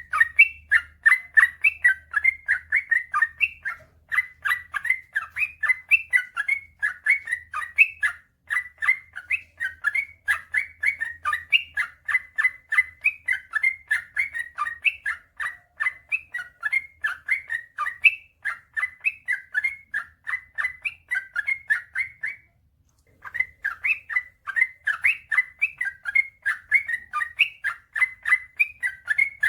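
Yellow-vented bulbul (trucukan) singing a long, fast run of short bubbling notes, several a second. The song breaks off for under a second about 22 seconds in, then resumes.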